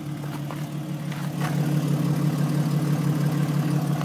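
A 2006 Jeep Wrangler Sport's six-cylinder engine idling steadily, the hum growing a little louder about a second in.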